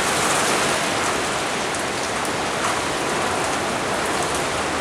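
Steady rushing storm noise: an even hiss with faint ticks scattered through it.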